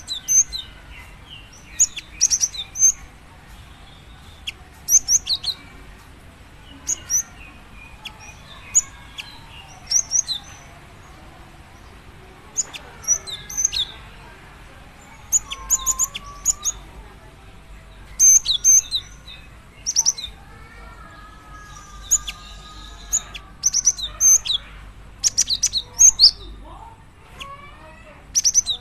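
Female cinereous tit calling: short, sharp high-pitched notes in quick clusters, repeated every second or two. Fainter lower whistled notes sound underneath.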